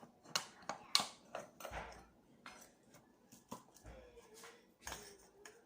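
Kitchen handling sounds: a spoon and containers clicking and knocking in a string of short, irregular taps, the loudest about a second in.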